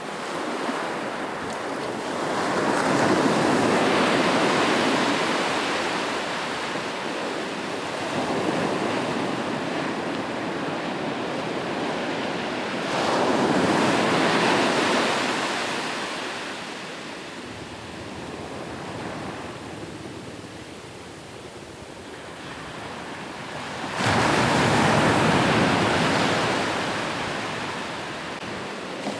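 Ocean waves breaking on a shore: a steady wash of surf that swells three times, about every ten seconds, the last swell coming in suddenly near the end.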